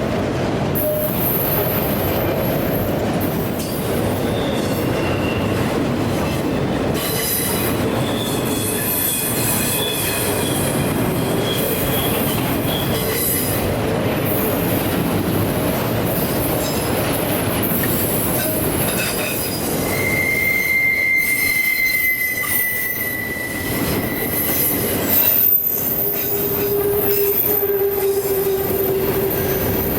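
Freight train cars rolling through a very sharp curve, the steel wheels scraping and squealing loudly against the rails over a steady rumble. Shrill squeals come and go, with one held squeal about two-thirds of the way through and a lower-pitched one near the end.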